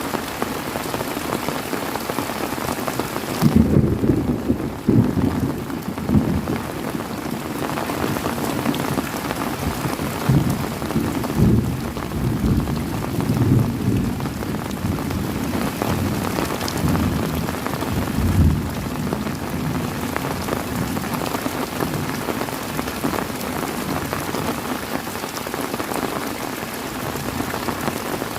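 Heavy rain falling steadily, with a long roll of thunder that breaks in about three seconds in and rumbles on with several loud swells before dying away about two-thirds of the way through.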